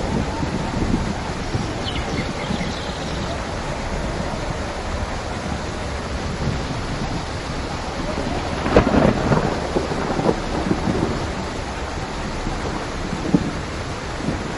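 Steady rain with thunder: a louder clap of thunder breaks in about nine seconds in and rumbles for a second or two before settling back into the rain.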